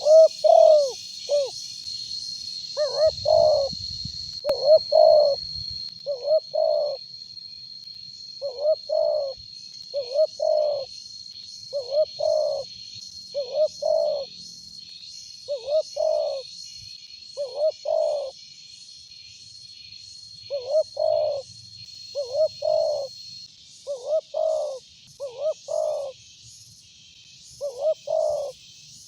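A spotted dove (tekukur) cooing repeatedly: low coo notes in groups of two or three, a phrase about every two seconds. This is a loud-voiced bird of the kind used as a lure call. Behind it is a high, hazy chirring and a thin steady high tone that stops about six seconds before the end.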